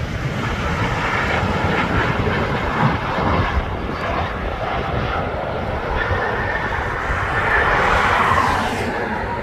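Jet airliner engines running steadily, with gusty wind buffeting the microphone as a ragged low rumble. The engine noise swells briefly near the end.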